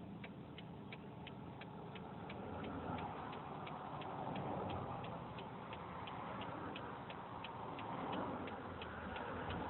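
Car turn-signal indicator clicking steadily, about three clicks a second, over low engine and road noise inside the car.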